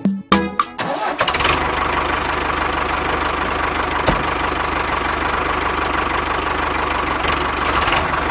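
A motor starts about a second in and runs steadily with a fast, even hum.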